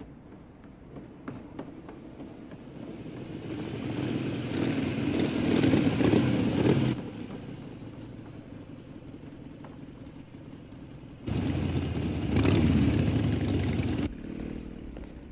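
Motorcycle engines running hard: one swells closer over a few seconds and drops away suddenly, then another loud burst starts abruptly and cuts off about three seconds later.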